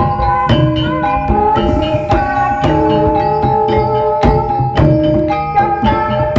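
Javanese gamelan music for an ebeg (jaran kepang) horse dance: struck metal keyed instruments play a steady line of ringing notes over drum strokes.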